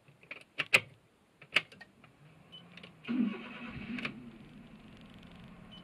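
A few sharp clicks, then an engine or motor starts about three seconds in and settles into a steady low hum.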